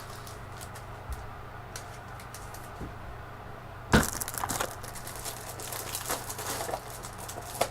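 Trading cards and their plastic packaging being handled: faint ticks and rustles, then about four seconds in a sharp crack followed by a few seconds of crinkling and clicking.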